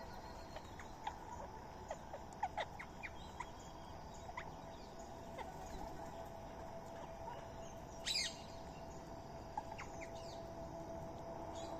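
Birds chirping: scattered short chirps over a faint steady hum, with one louder, shrill call about eight seconds in.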